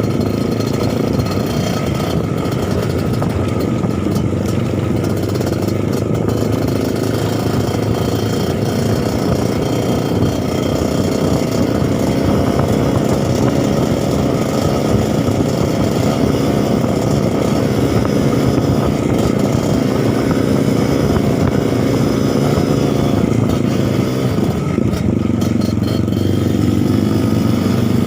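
Suzuki TS 125 two-stroke single-cylinder trail motorcycle engine running at fairly steady revs, with small rises and falls in pitch.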